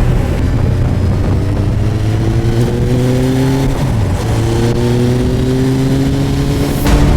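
Suzuki GSX1250FA's inline-four engine pulling under acceleration: its note climbs steadily, dips at a gear change about four seconds in, then climbs again, over a steady low rush of wind noise.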